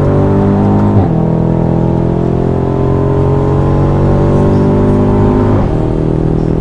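2019 BMW F90 M5's twin-turbo V8 accelerating hard through a DunnFab 3.5-inch straight-pipe catback exhaust, heard from inside the car. The note breaks briefly about a second in, then holds strongly and drops off near the end as the pull ends.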